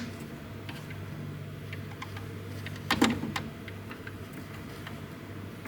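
Low steady hum with a few sharp clicks and knocks from hand work on the 3D printer's parts, the loudest pair about three seconds in.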